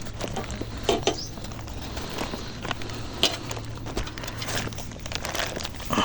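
Scattered light knocks, taps and rustling from handling a freshly landed crucian carp and the fishing tackle, over a low steady hum.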